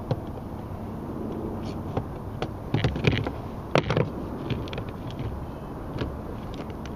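Steady low background rumble with a cluster of sharp knocks and clatters about three to four seconds in, and a few fainter clicks.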